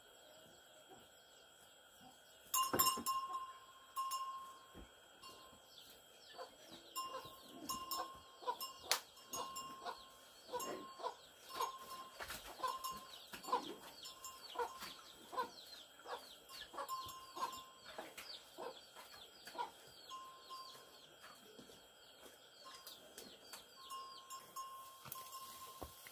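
Farm animals calling: a busy run of short, high calls and squeaks mixed with clicks and knocks, starting about two and a half seconds in.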